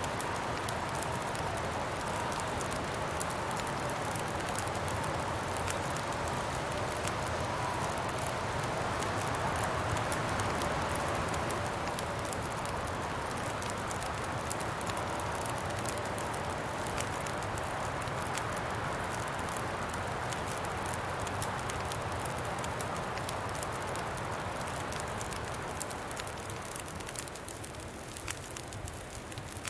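Wind blowing with a slowly wavering whistle, over a crackling campfire with frequent small pops.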